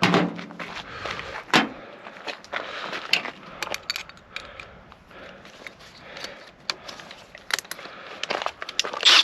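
A brief whir of a power drill turning a socket in the first half-second, then irregular clicks, knocks and scrapes of tools and metal parts being handled while a microwave oven is taken apart.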